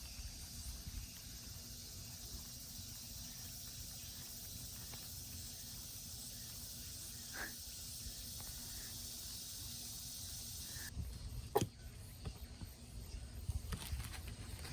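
Quiet outdoor background noise with a steady low rumble, then a sharp knock and a few faint clicks and taps in the last few seconds.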